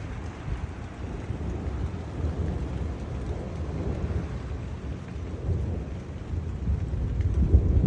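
Thunder rumbling continuously under steady rain, swelling louder near the end.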